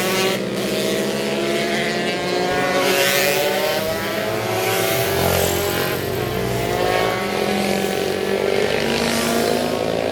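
Racing motorcycles on a road circuit, engines at high revs, several passing close one after another, about half a second, three and nine and a half seconds in, over the continuous note of others further round the course.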